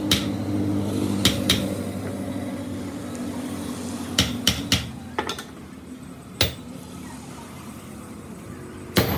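Sharp metallic clinks and knocks of steel parts and tools being handled, a few at a time, with a machine motor humming steadily under them that stops about halfway through.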